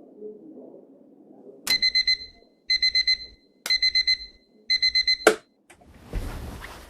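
Electronic alarm beeping in a high, steady tone: four groups of four quick beeps, one group a second, ended by a sharp click.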